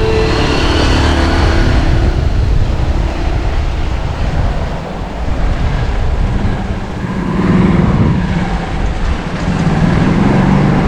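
Wind rumbling over the microphone on a moving bicycle, mixed with road and traffic noise. A motor vehicle's engine swells louder about seven seconds in and again near the end.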